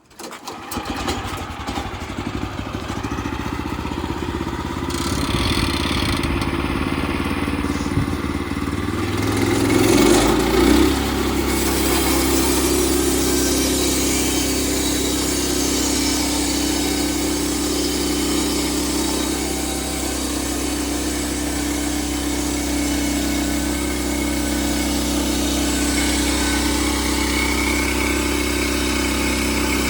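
Engine of a Bushlander HM122 portable sawmill starting up and running, revving up about ten seconds in, then running steadily at speed.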